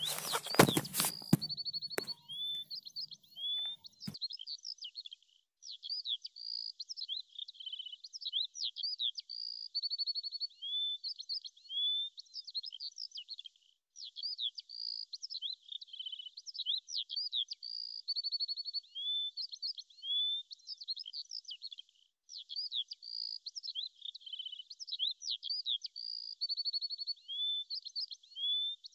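Birdsong: rapid high chirps and short trills that continue, broken by brief pauses about every eight seconds. A short loud noise comes at the very start.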